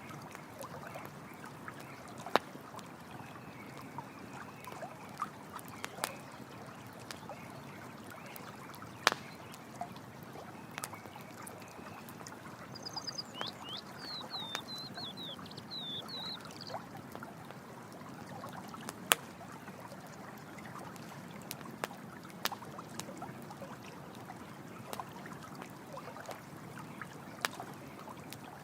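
Running water flowing steadily, with the sharp crackles and pops of a campfire scattered through it. A short burst of high chirps comes about halfway through.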